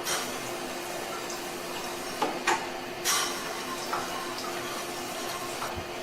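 Water jet from a spray gun hitting the cross-flow blower wheel of a wall-mounted air conditioner's indoor unit, a steady sizzling "zizi" hiss with a few short louder spurts, over a steady hum.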